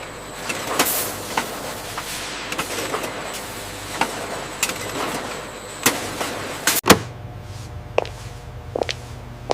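Factory machinery noise: a steady whirr with irregular clanks and knocks. About seven seconds in it cuts abruptly to a low steady hum with occasional clinks.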